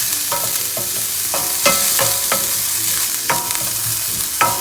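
Onions, crushed ginger, garlic and green chillies sizzling in hot coconut oil as they are stirred in a pan, the stirring utensil knocking against the pan with short ringing clinks about twice a second. They are being sautéed until their raw smell goes.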